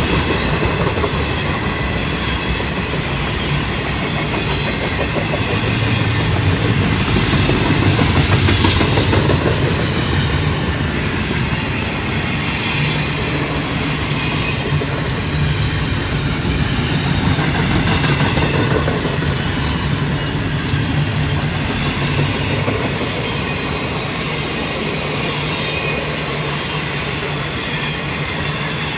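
Intermodal freight cars loaded with double-stack containers and highway trailers rolling past at speed: a steady rumble of steel wheels on the rails, swelling a little every couple of seconds as each car goes by.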